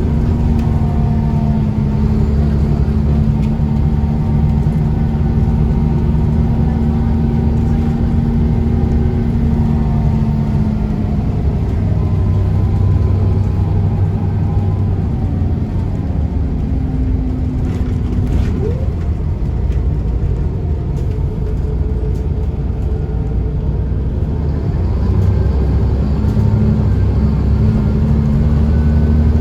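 Scania L94UB bus's DSC9 nine-litre six-cylinder diesel engine running on the road. The engine note holds steady at first, drops about a third of the way in, and climbs again near the end.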